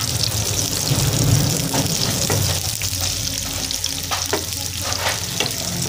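Sliced chilies, shallots, garlic and galangal sizzling in hot oil in a pan, stirred with a wooden spatula that scrapes the pan several times.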